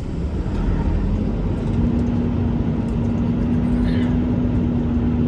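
Semi-truck engine and drivetrain running as the truck creeps along slowly, a steady low rumble, with a steady hum joining about one and a half seconds in.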